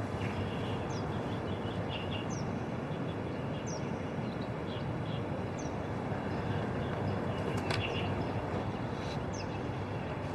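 Outdoor ambience: a steady low rumble of background noise with small birds giving short, high chirps every second or so.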